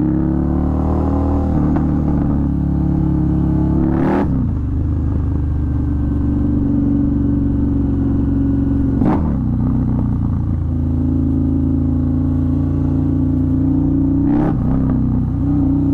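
Harley-Davidson Night Rod's V-twin engine running hard under acceleration. It shifts up three times, about four, nine and fourteen seconds in, each with a short break and a drop in engine pitch.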